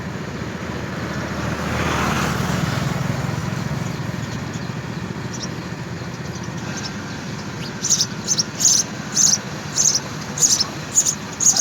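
A steady low rumble that swells and fades in the first few seconds. From about eight seconds in, a house sparrow chirps repeatedly, about two short chirps a second.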